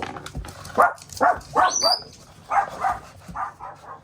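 A dog vocalizing in a series of short calls, one of them rising sharply in pitch about halfway through.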